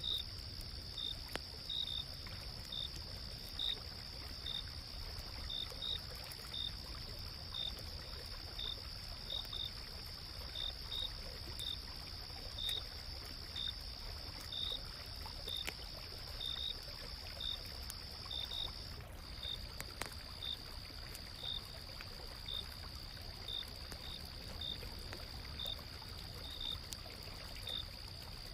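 Autumn-night insects calling: a steady high trill, which thins about two-thirds of the way through, with short chirps repeating about twice a second, over the low rushing of a gently flowing stream.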